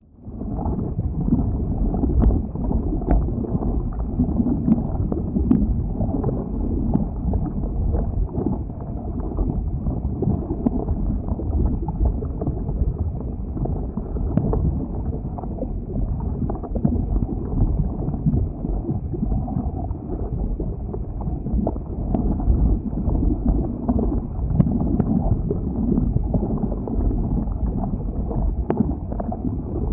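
Lava flow: a steady low rumbling noise with scattered faint crackles, mixed with wind buffeting the microphone.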